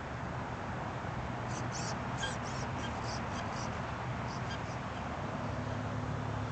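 A small bird chirping a quick run of short, high squeaky notes, starting about a second and a half in and stopping before the end. Underneath is a steady hiss and a low hum.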